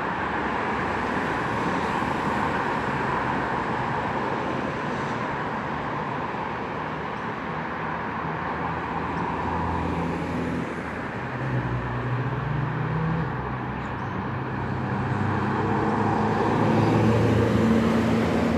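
Steady road traffic noise. A motor vehicle's engine hum comes in about halfway through and grows louder toward the end.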